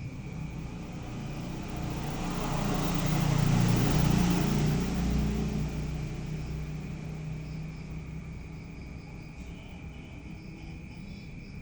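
A motor vehicle passing, its sound swelling to a peak about four seconds in and fading away, over steady insect chirring.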